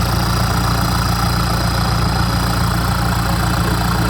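Kubota M6240SUH tractor's four-cylinder diesel engine idling steadily through an aftermarket 3-inch exhaust pipe, with a deep, even note.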